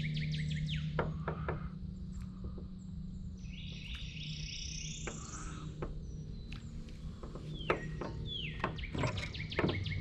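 Several birds calling: rapid series of chirps and repeated downward-sweeping whistled calls, over a steady low hum.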